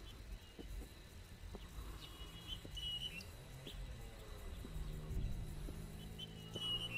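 A bird chirping in short high calls, a few about two to three seconds in and again near the end, over soft footsteps on stone steps and a faint low hum.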